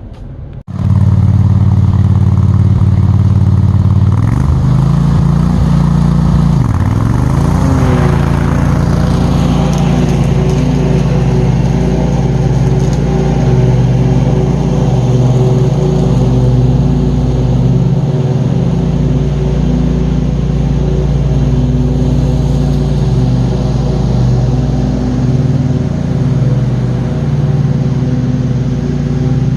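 John Deere QuikTrak 652R stand-on mower engine running loudly and steadily while mowing, its pitch briefly dipping and recovering about seven seconds in.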